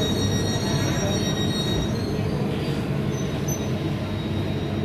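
SBB regional passenger train rolling slowly into the platform and braking: a steady low rumble of wheels on rails, with a thin high squeal that fades out about two seconds in.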